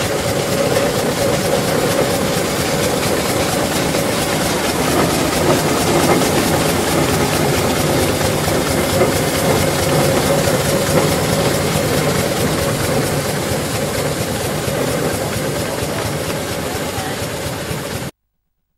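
Steam traction engines running in a steady, noisy blend with a faint wavering tone in the middle. The sound cuts off suddenly near the end.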